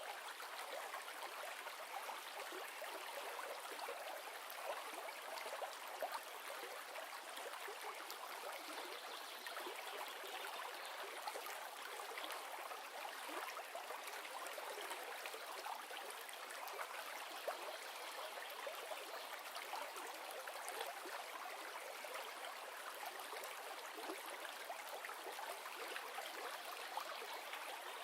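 River sound: a steady rush of flowing water with small splashes and gurgles, used as a white-noise study background.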